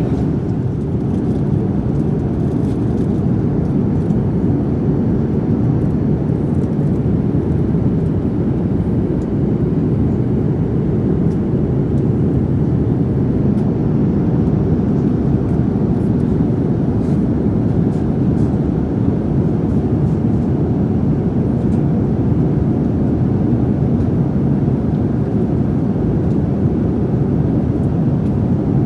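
Steady drone of a jet airliner heard from inside the passenger cabin: engine and airflow noise, even and unbroken, with a few faint clicks.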